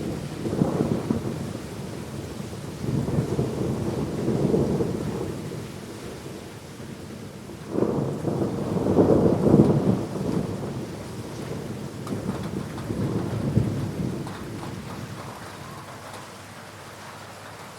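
Thunder rumbling over steady rain: a long rumble in the first five seconds, a louder one starting about eight seconds in, and a weaker one around thirteen seconds, after which only the rain is left.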